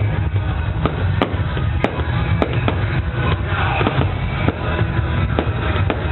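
Loud music over a sound system with a heavy, steady bass, and fireworks popping and banging at irregular intervals throughout.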